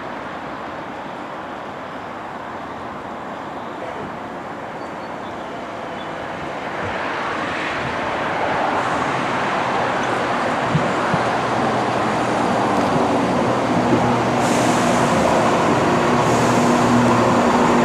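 A diesel train approaching, its noise growing steadily louder, with an engine hum coming in about halfway through and building toward the end.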